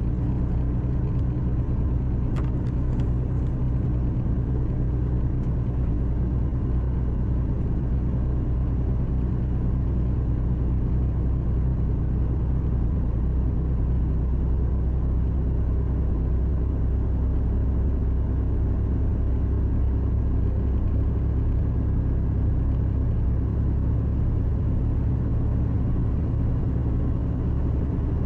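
Heavy truck's diesel engine running steadily at cruising speed, heard from inside the cab along with road and tyre noise: a low, even drone.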